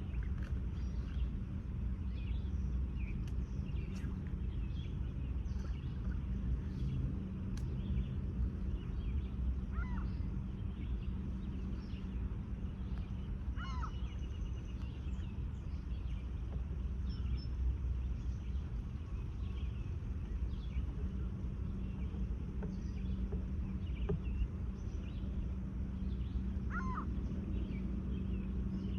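Steady low industrial hum from paper mill machinery, with a constant drone tone. A few short bird calls come over it, about ten, fourteen and twenty-seven seconds in.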